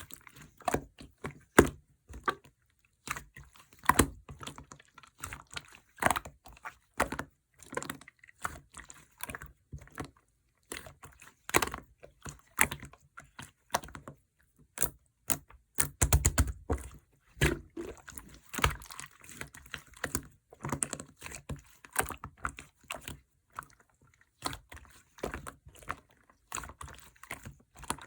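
Purple slime being squeezed, stretched and pressed by hand, giving many irregular small clicks, pops and squelches.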